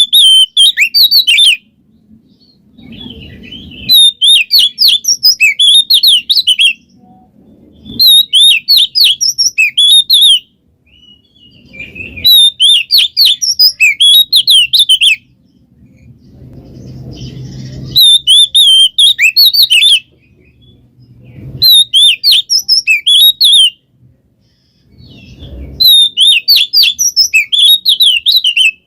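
Oriental magpie-robin (kacer) singing loud, rapid high chattering phrases, about seven bursts of two to three seconds each with short pauses between.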